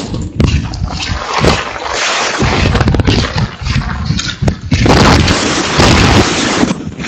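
Strong typhoon wind buffeting the microphone with rain, coming in repeated gusts that surge and drop every second or so.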